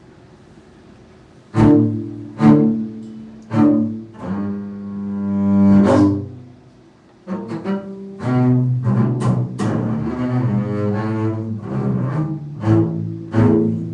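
A solo bowed string instrument playing a contemporary concert piece. After about a second and a half of quiet, it plays three hard, accented strokes and then a long note that swells. A short pause follows, then a busier passage of quick strokes and held notes.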